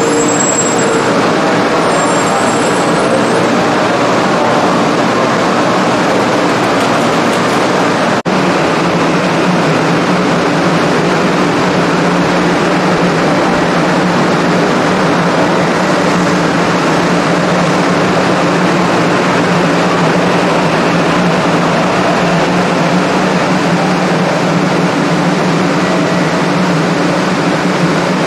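Hello Kitty Shinkansen, a 500-series bullet train, running with a steady, unbroken rumble and a low hum underneath. The sound drops out for a moment about eight seconds in.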